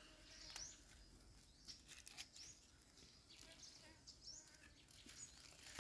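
Near silence: quiet outdoor ambience with a few faint, short, high bird chirps.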